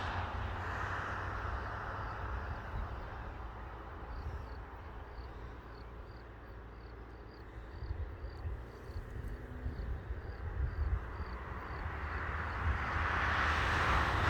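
Outdoor wind rumbling on the microphone, gustier near the end. From about four to ten seconds in, a small high chirp repeats about two to three times a second.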